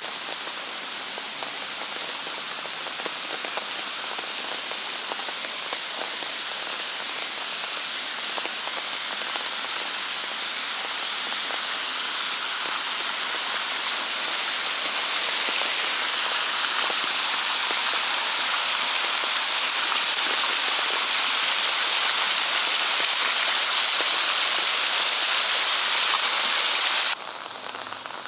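Rain falling steadily, a dense hiss of drops that slowly grows louder, then drops suddenly to a softer level near the end.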